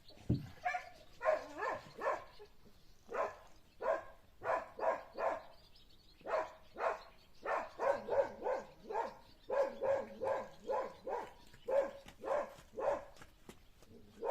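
A dog barking repeatedly in short, sharp barks, often two or three in quick succession.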